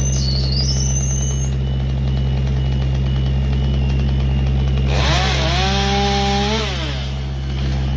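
A steady low engine drone throughout, with a chainsaw revving up about five seconds in, holding at speed for about a second and a half, then dropping back.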